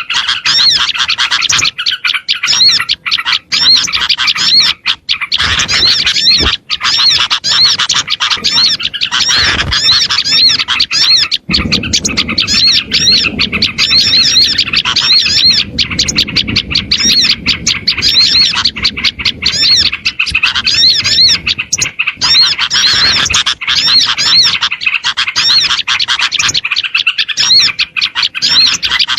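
A dense, continuous chorus of many small songbirds chirping and twittering over one another, a small-bird lure call (suara pikat) used to draw wild small birds in. A low rumble runs underneath through the middle.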